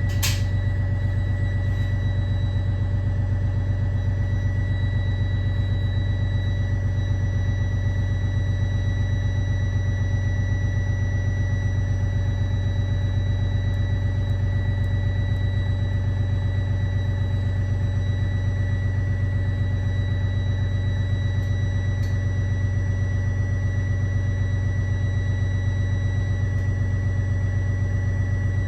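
Cummins ISB 6.7 six-cylinder turbodiesel of a 2014 Thomas Saf-T-Liner C2 school bus running at a steady, unchanging speed, with a thin, steady high whine over the engine hum. A single sharp click comes just after the start.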